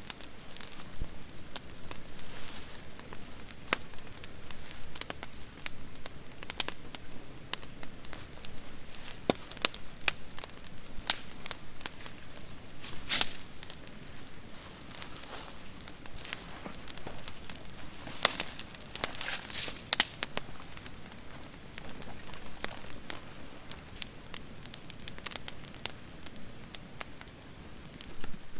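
Wood campfire crackling, with irregular sharp pops and snaps and a few louder clusters of pops along the way.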